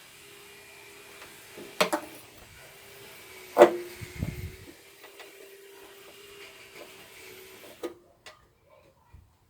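Two sharp knocks about two seconds apart, the second the louder and followed by a brief low rumble, over a faint steady hum that cuts off near the end.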